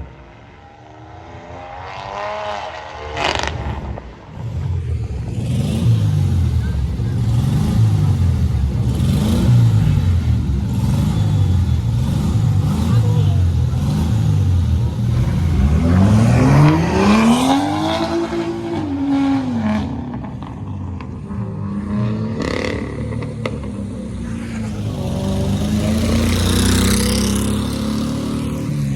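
Modified car engine revved hard over and over in quick blips, its pitch climbing and dropping with each stab of the throttle, then held in one longer rev that rises and falls about two thirds of the way through.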